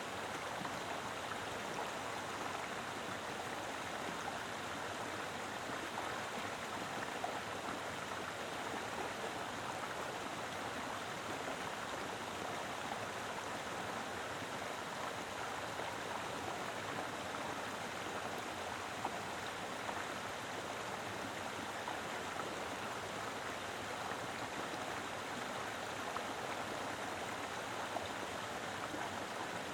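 Mountain river flowing steadily over rocks, an even rushing of water with a constant level.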